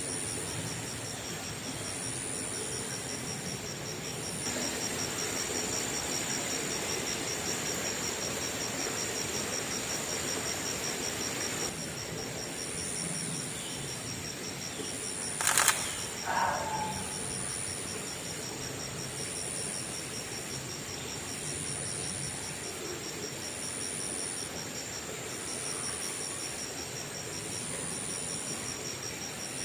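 Steady high-pitched insect chorus from the trees: a continuous shrill trill with a pulsing buzz over it, repeating about every second and a half. A single sharp click about halfway through, followed by a brief falling chirp.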